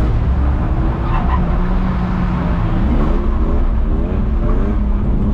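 Car engine running on a drift track, holding steady, then climbing in pitch in several quick revs about three to four and a half seconds in.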